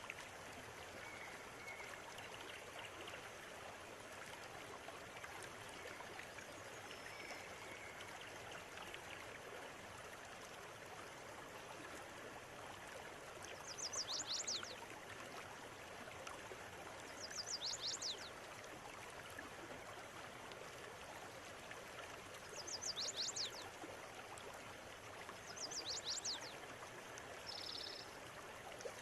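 Steady rush of a flowing river. A bird gives a short burst of quick, high falling notes four times in the second half, with another high call near the end and a few faint chirps early on.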